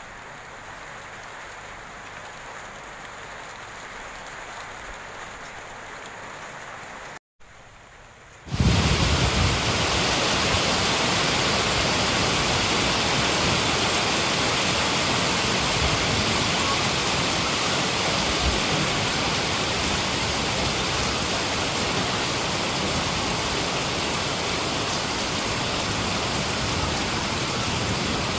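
Rain falling, fairly soft at first. After a brief dropout about seven seconds in, a much louder, steady heavy downpour starts abruptly and keeps on.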